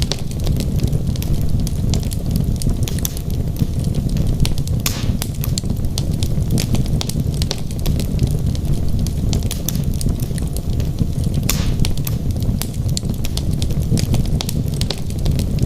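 Wood fire burning in a fireplace: a steady low rumble of the flames with frequent sharp crackles and pops from the logs, two louder pops about five and eleven seconds in.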